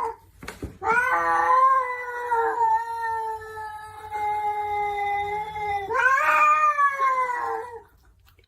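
Cat yowling in long drawn-out calls: one held steady for about five seconds, then a second call that rises and slowly falls away. A short sharp knock comes just before the first call.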